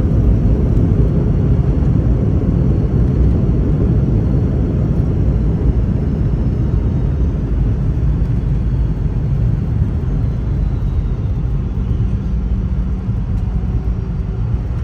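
Low, steady rumble heard inside the cabin of a Boeing 717-200, from its engines and airframe, easing slightly over the seconds, with a faint high whine that drifts down in pitch.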